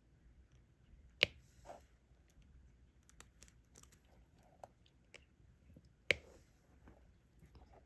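Diamond-painting stylus picking up drills and pressing them onto the sticky canvas: a run of faint, irregular small clicks and taps, two of them sharper and louder.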